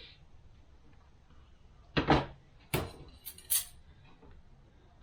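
Transmission clutch plates clattering as they are handled and tossed: about four sharp metallic clacks in quick succession, starting about two seconds in.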